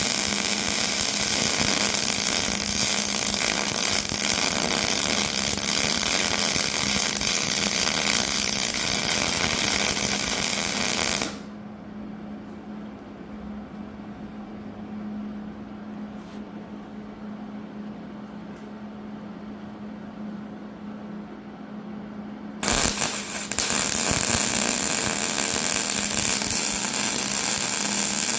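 Metalworking on a 3/8-inch mild steel plate: a loud, steady, harsh noise that stops abruptly about eleven seconds in and starts again abruptly about eleven seconds later. A steady low hum carries on through the gap.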